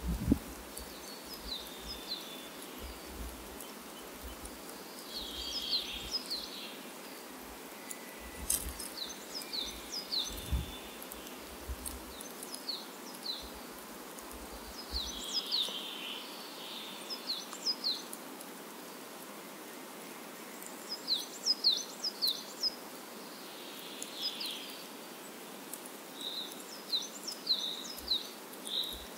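Birds chirping over a steady hiss of outdoor ambience: clusters of short, quickly falling chirps come every few seconds.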